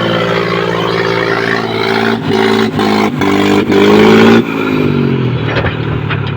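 Tractor engine running hard, revved in several short bursts that climb in pitch to the loudest point about four seconds in, then dropping back.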